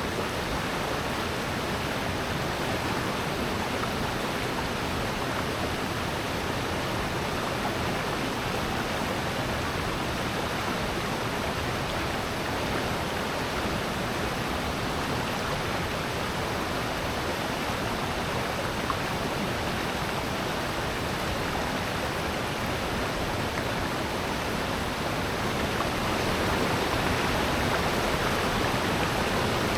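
Rushing water of a valley stream and waterfall, a steady, even hiss that grows a little louder near the end.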